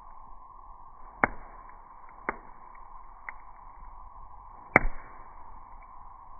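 Wood bonfire crackling: a few sharp pops from the burning wood, the loudest about three quarters of the way through, over a steady faint hiss.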